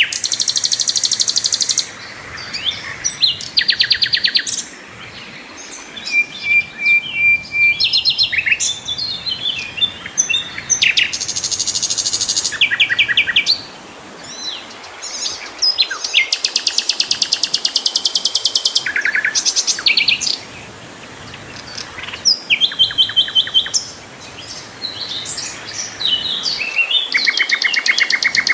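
Sikatan londo flycatcher singing loudly and continuously, a string of fast, high, buzzy trills, each lasting a second or two with short pauses between, some trills pitched higher and some lower.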